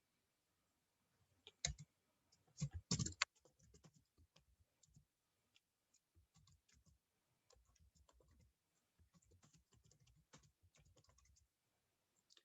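Faint computer keyboard typing and mouse clicks: a louder cluster of clicks about two to three seconds in, then a run of light, quick keystrokes.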